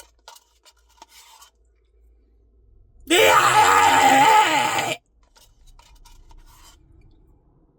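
A man's drawn-out groan, about two seconds long with wavering pitch, starting about three seconds in. Faint clicks come before it.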